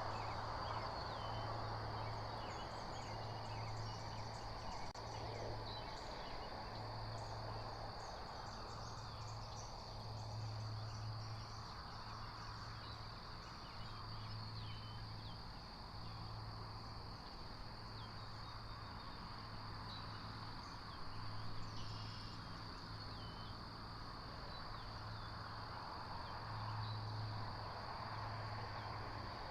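Outdoor ambience at a nest: a steady high-pitched drone with scattered faint bird chirps over a low hum that pulses on and off.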